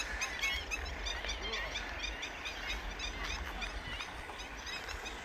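Several red-wattled lapwings calling over and over, many short, sharp calls overlapping, over a low steady rumble. The birds are agitated, calling close to a person near their chicks.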